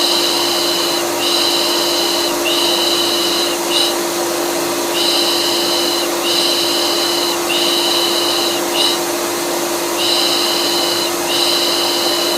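A vacuum cleaner runs steadily with a constant low hum, a continuous white-noise sound used to soothe colicky babies. Over it comes a rhythmic 'shh' shushing in groups of three long shushes and a short one, each group followed by a brief pause.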